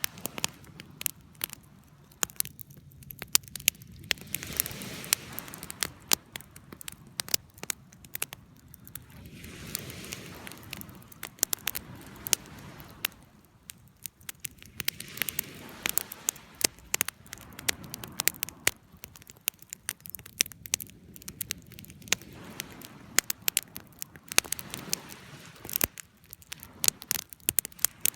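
Campfire crackling, with frequent sharp pops and snaps of burning wood over a soft rushing of flame that swells and fades every few seconds.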